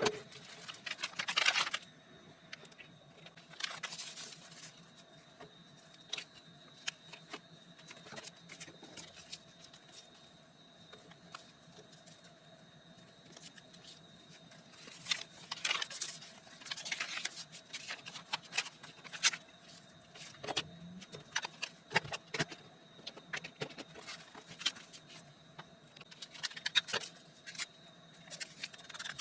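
Paper and craft materials being handled on a tabletop: irregular rustling, scraping and small taps, in clusters with quieter gaps, over a faint steady hum.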